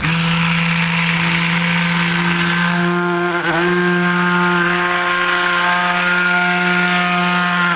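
Stick blender running steadily in a pot of soapmaking oils and lye water, a loud, even motor whine, blending the batter toward trace. Its pitch wavers briefly about three and a half seconds in.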